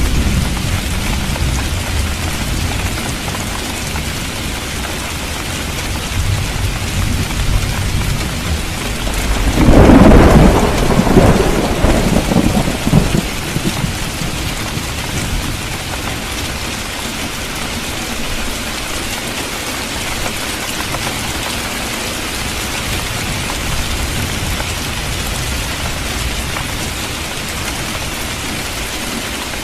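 Steady heavy rain falling on the street during a thunderstorm, with a loud crack and rumble of thunder about ten seconds in that fades over a few seconds.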